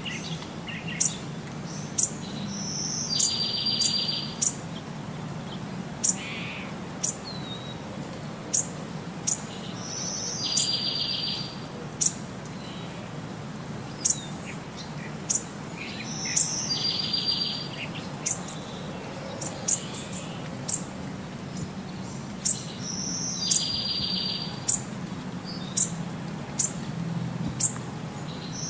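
Bird chirping: short sharp high chirps about once a second, with a buzzy trill coming back about every six and a half seconds in a repeating loop, over a steady low hum.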